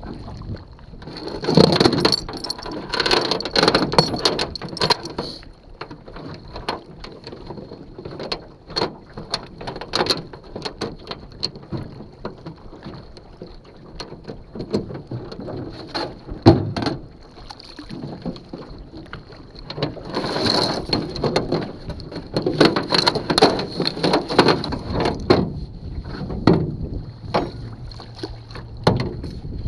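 Irregular knocks and clunks with stretches of rough noise from handling gear in and around a small boat on the water, louder twice: near the start and about two-thirds of the way through.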